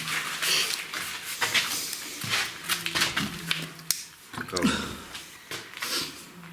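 Firewood logs knocking and scraping as they are handled, in a series of irregular clattering knocks.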